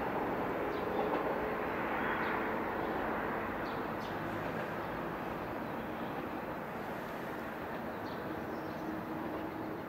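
JR West local electric train running away down the line, its wheel and running noise slowly fading as it recedes.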